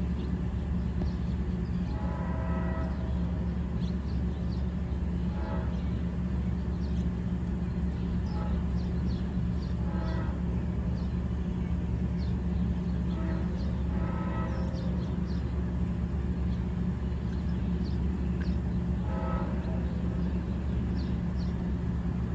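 Steady low rumble of an idling diesel locomotive. Over it, a distant multi-chime train horn sounds about six times, some blasts about a second long and some short, as the approaching train blows for crossings.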